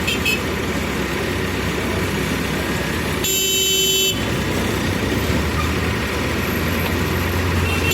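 A vehicle horn honks once, for under a second, about three seconds in, over steady engine and road-traffic noise.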